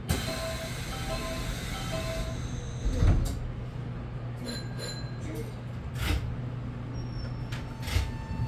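Semboku 9300-series electric train running between stations, a steady low hum of motors and wheels inside the car. Sharp knocks come about three seconds in, about six seconds in and near the end as the wheels pass over rail joints or points.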